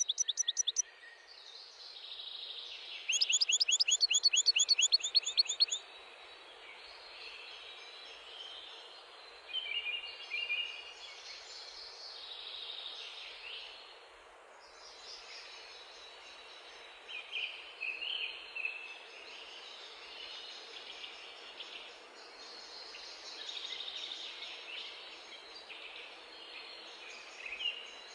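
Birds chirping and singing over a steady background hiss, with a loud, fast trill about three seconds in that lasts some three seconds.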